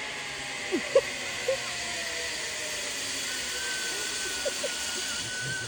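Zip-line trolley running along a steel cable with a steady whirring rush. A thin steady whine from the pulleys sets in about halfway through, and a few short chirps can be heard.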